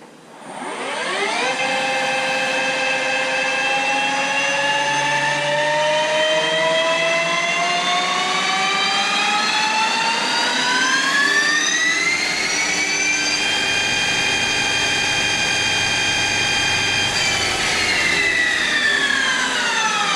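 CNC lathe spindle whining as it cuts the plastic roller free. The pitch jumps up as the spindle starts, climbs slowly for several seconds, holds level for a few seconds, then falls as the spindle slows.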